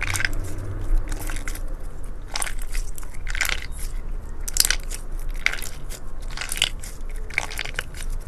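Slime being squeezed and pressed by hand, giving a series of short crisp crackling squishes, roughly one a second.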